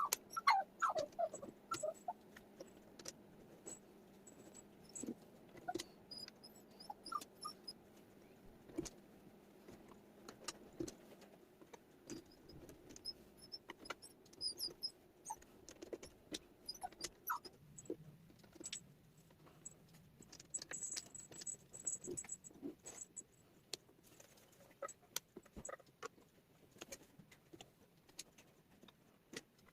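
Wooden jigsaw puzzle pieces clicking and tapping irregularly as they are handled and fitted together, with a few short falling squeaks in the first couple of seconds.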